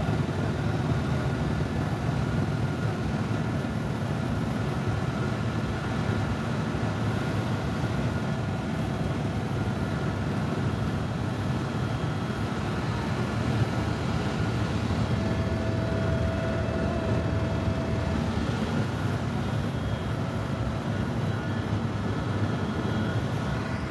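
Tour helicopter heard from on board: steady rotor and engine noise with a constant whine over it, unbroken throughout.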